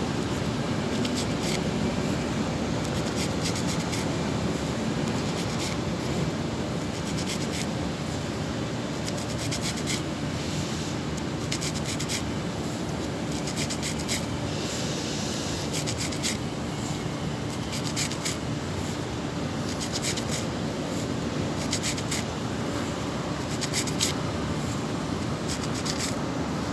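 Rubber foam pipe insulation being handled and worked around a copper liquid-line pipe: repeated rubbing and scraping with short crackly scratches, over a steady background noise.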